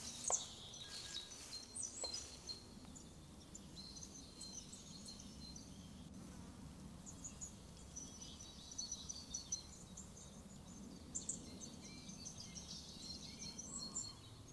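Forest ambience: many short, high-pitched chirps and twitters scattered throughout, with two sharp clicks in the first two seconds.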